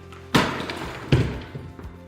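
Two sledgehammer blows on brick, each a sharp crack that fades, less than a second apart, over background music.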